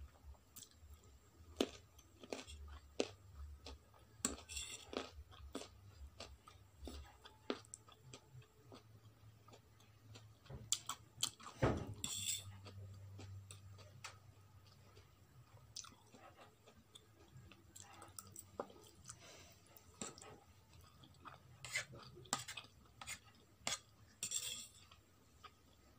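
Close-up eating sounds: wet chewing and crunching of food, including a piece of carrot, with a fork clinking and scraping on a ceramic plate. A louder knock comes a little before the middle.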